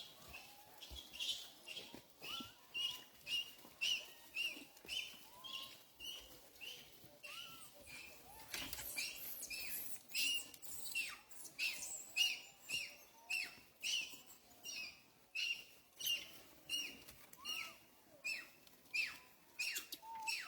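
A small animal gives short, high-pitched chirping calls over and over, about two a second, each dropping slightly in pitch, with a few softer lower squeaks between them.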